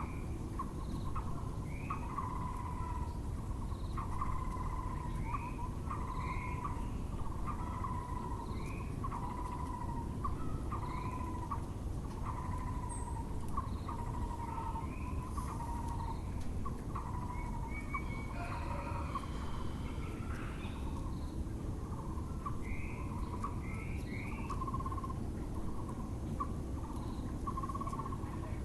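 Muller's barbet (Taiwan barbet) calling: a steady series of short, low, hollow notes repeated about once or twice a second. Another bird adds a brief burst of higher chatter near the middle, over constant low background rumble.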